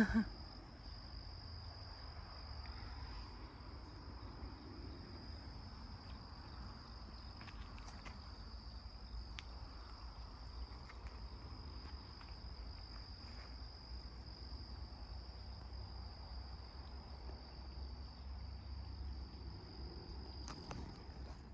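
Insects trilling steadily at dusk, one continuous high-pitched tone, over a faint low rumble.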